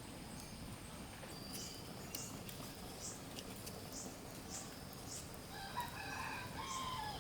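A rooster crowing once near the end, about a second and a half long, over short high chirps repeating about twice a second.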